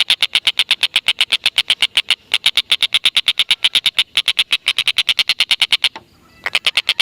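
Stork-billed kingfisher (tengkek buto) giving its long cackling 'ngekek' call: a loud, rapid run of sharp, high 'kek' notes at about ten a second. It breaks off briefly twice and pauses for about half a second near the end before starting again.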